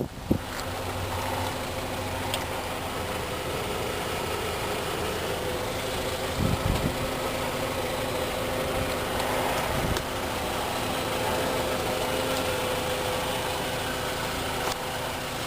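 2003 Volkswagen Jetta's 2.0-litre four-cylinder engine idling steadily, with a short knock just after the start.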